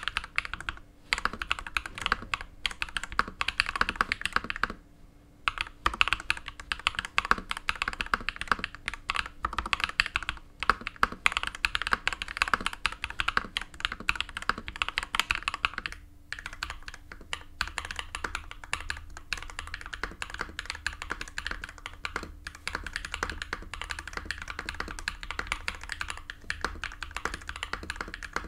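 Fast continuous typing on a mechanical keyboard with lubed KTT Pink Peach linear switches and PE-foam and silicone dampening, a dense run of soft key clacks with a brief pause about five seconds in.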